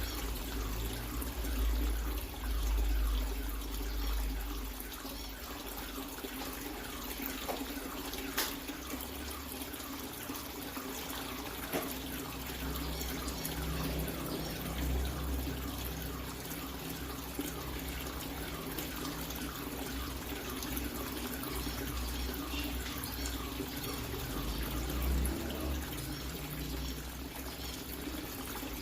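Water running and splashing steadily into a water-filled tank.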